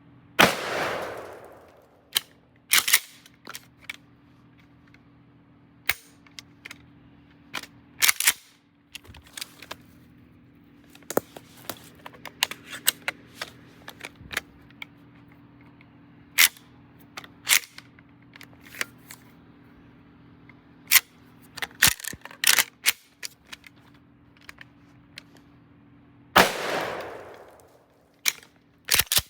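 A firearm fired twice, each shot a loud blast with a long echoing tail, the second about 26 seconds after the first. In between come many sharp metallic clicks and knocks, like the gun's action being worked and handled.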